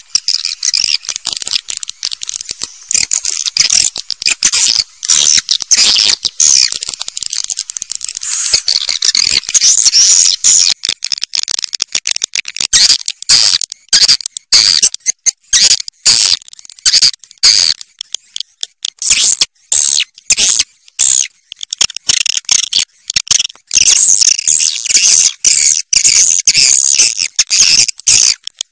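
Edible-nest swiftlets twittering: rapid, high-pitched chirps and clicking trills. They run dense for the first half, then come in short broken spurts with brief gaps, and are dense again near the end. This is a swiftlet call recording of the kind played to lure swiftlets into nesting houses.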